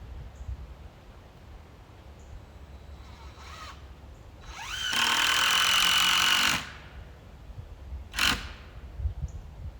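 Power drill running in three spurts: a short one, then a louder run of about two seconds that whines up in pitch and holds steady, then another short burst.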